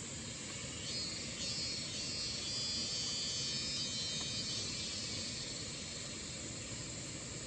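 An insect's high, buzzing trill rises over a steady rushing hiss about a second in and fades out around five seconds.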